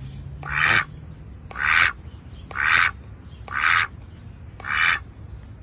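Duck quacking: short, harsh quacks repeated about once a second, five in a row.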